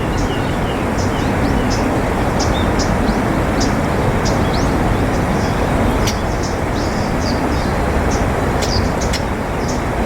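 Steady low rumbling background noise, with many short, high chirps of small birds scattered through it.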